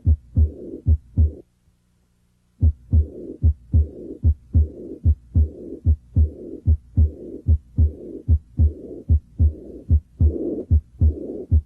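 Heart sounds heard through a stethoscope, with the early diastolic murmur of aortic regurgitation. It is a regular run of sharp beats, each followed by a drawn-out murmur, with a brief break about one and a half seconds in.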